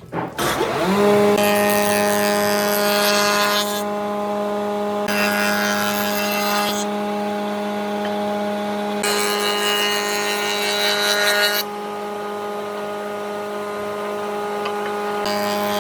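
An electric power tool spins up about half a second in and runs with a steady hum. It works into wood in four stretches of rasping noise, each a second or two long.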